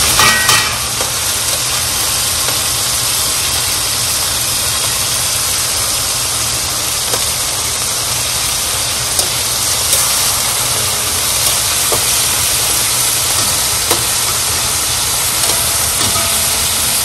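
Boneless chicken breasts searing in hot oil in a pan on high heat: a steady sizzle with a few small pops, over a steady low hum.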